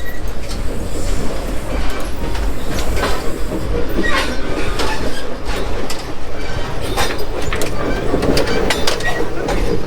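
Passenger train cars rolling along the track: a steady rumble with irregular clicks and knocks from the steel wheels over rail joints, and a few brief high wheel squeals.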